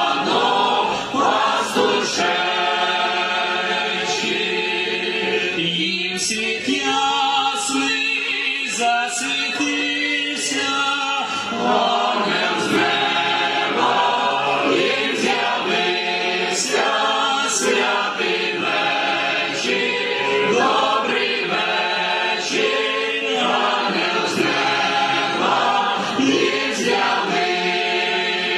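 Choir singing a Ukrainian Christmas carol, several voices together in sustained lines.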